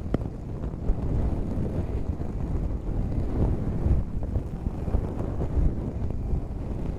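Close rubbing on the microphone, a muffled, uneven low rumble, with a sharp click just after the start.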